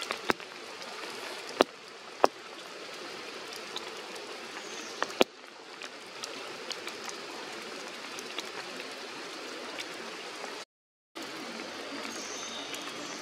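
Steady rain falling on forest foliage, with a few sharp taps of drops striking close by in the first five seconds. The hiss drops out for a moment near the end.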